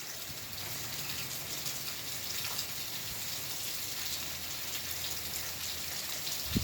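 Rain falling steadily, a dense even hiss with faint scattered drop ticks.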